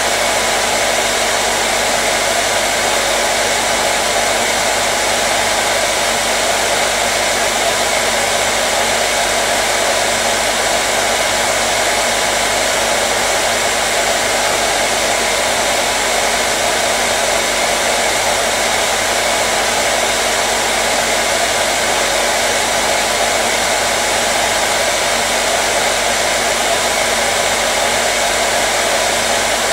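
Electric hair dryer running continuously at a steady speed: an even, unbroken blowing noise with a faint steady hum from its motor.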